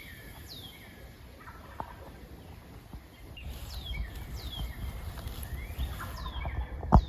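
A distant wild turkey gobbling amid songbirds singing repeated down-slurred whistles. Wind rumbles on the microphone from about halfway through, and there is a sharp thump near the end.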